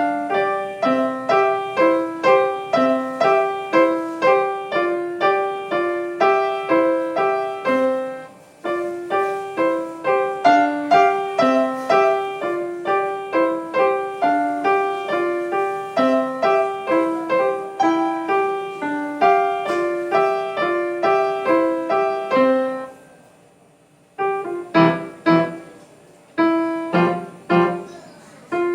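Solo piano playing an even, flowing run of notes. About 23 seconds in it breaks off for a second or so, then resumes with separate struck chords.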